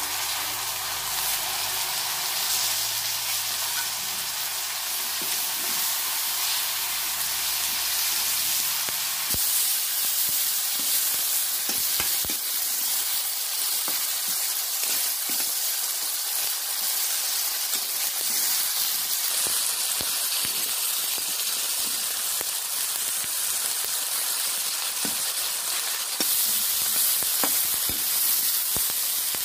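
Food frying in hot oil in a metal wok while it is stirred with a perforated metal ladle: a steady sizzling hiss with scattered sharp clicks.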